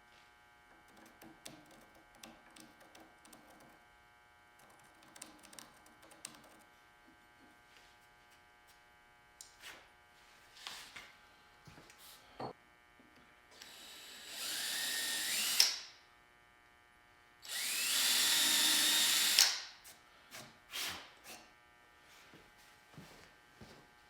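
A handheld electric power tool runs in two bursts of about two seconds each, its whine rising as the motor spins up. Scattered clicks and knocks of tools and metal being handled fall between them.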